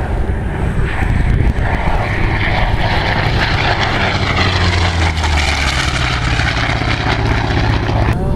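Propeller-driven warbird's piston engine making a flyby. The engine note swells to its loudest about halfway through and drops slightly in pitch as the plane passes, then cuts off suddenly at an edit.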